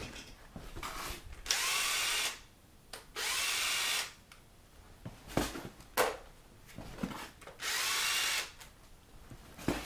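Cordless power tool spinning out the bolts that hold the camshaft gear of an LS V8 engine, in three short runs of under a second each with a rising whir, and a few metallic clunks between them.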